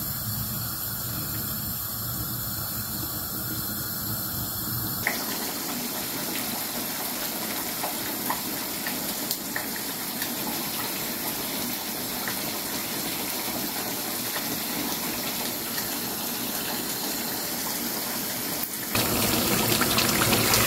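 Chicken gravy simmering and sizzling in a frying pan on a gas hob, a steady hiss with small pops. The sound changes abruptly twice as the footage is cut, and it is louder near the end as the thick gravy fries down in its own oil.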